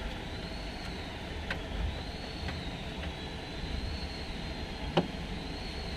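Steady background rumble with a faint, slowly wavering high whine. Three light clicks, the sharpest about five seconds in.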